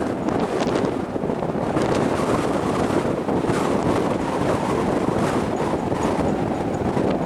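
Strong gusty wind buffeting the microphone, a dense rumbling rush that rises and falls.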